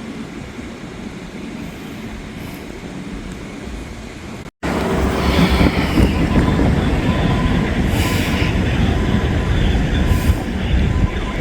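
A train rolling past on the rails: a steady, dense rumble of wheels with some higher screeching. It starts abruptly after a short break about four and a half seconds in; before the break there is only a quieter steady background noise.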